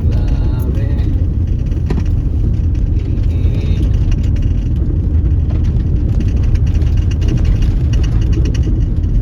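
Car driving along an unpaved dusty road: a steady low rumble of engine and tyre and road noise.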